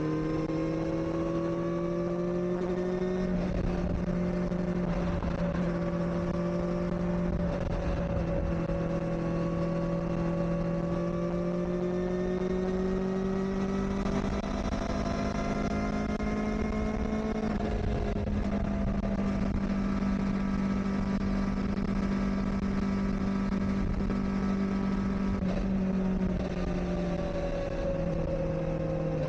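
Kawasaki Ninja ZX-4RR's 399 cc inline-four running at a steady cruise at moderate revs, which are kept low because the engine is still being run in. The revs climb slightly in the first few seconds, hold steady, and ease off near the end.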